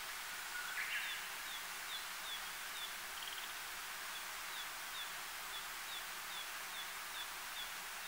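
Male Narcissus flycatcher calling faintly: a short phrase about a second in, then a long even run of short, high, falling notes, about two to three a second. Under it is a steady hiss of outdoor ambience.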